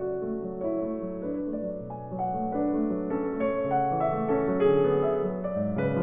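Background piano music, slow and gentle, building gradually louder and higher.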